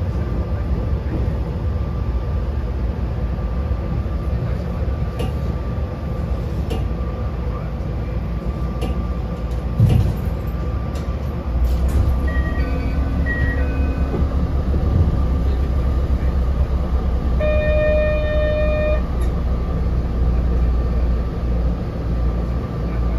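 Inside the cabin of a narrow-gauge electric railcar: a steady low hum at standstill, a sharp thump, then the car pulls away and the low running rumble grows louder. Short stepped electronic tones come as it gets under way, and a brief steady chord of tones sounds later.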